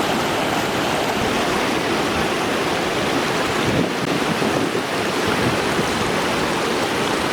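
Steady rushing of a stream's flowing water, an even unbroken noise.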